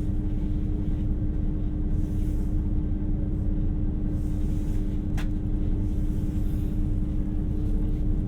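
Steady low rumble inside a 2700 series diesel express railcar, with a constant hum under it and one sharp click about five seconds in.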